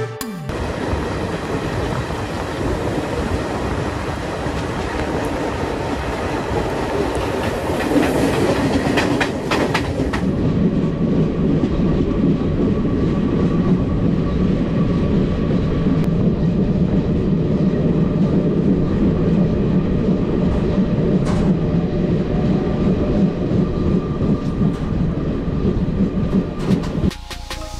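Moving Indian Railways passenger train heard from the coach doorway: wheels running on the track with the steady noise of the coaches in motion. The sound shifts deeper about ten seconds in.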